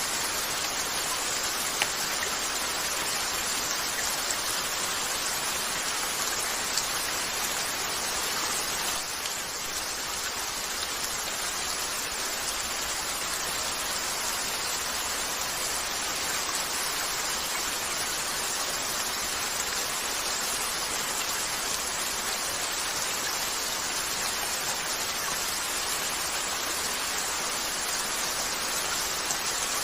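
Steady rain falling on a window pane, an even hiss of drops, with a few faint crackles from a wood fire in a fireplace.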